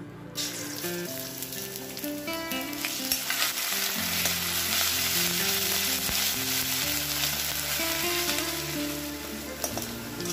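Crushed ginger and garlic sizzling in hot oil in a stainless steel kadai, stirred with a metal spoon. The sizzle starts just after the start as the paste hits the oil, and is loudest in the middle.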